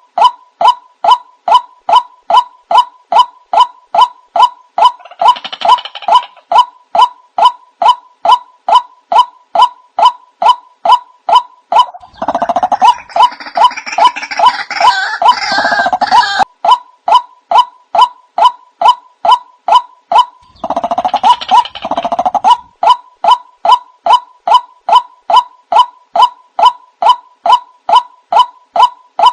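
White-breasted waterhen (ruak-ruak) call played as a bird lure: a single call repeated evenly about twice a second, with louder, rougher calling layered over it three times.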